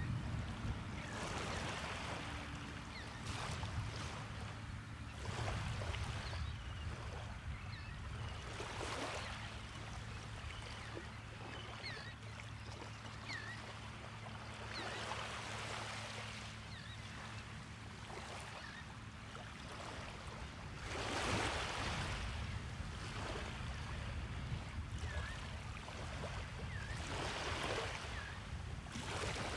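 Small waves washing onto the beach, each swell of surf rising and falling every few seconds. Faint short bird calls come through now and then, over a low steady hum.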